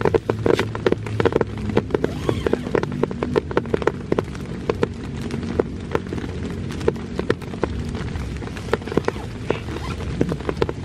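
Heavy rain falling, with large drops striking close by as quick, irregular taps over a steady low rumble.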